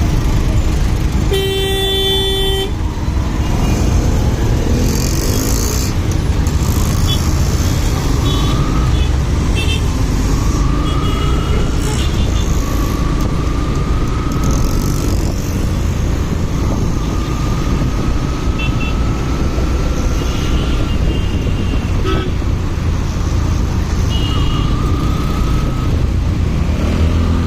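Motorcycle riding in city traffic: steady engine and wind rumble on the rider's microphone, with a vehicle horn honking for about a second near the start and short horn beeps from other traffic later on.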